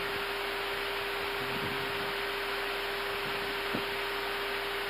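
Steady hiss with a faint steady hum tone on the cockpit radio and intercom audio between transmissions, with a single faint click a little before the end.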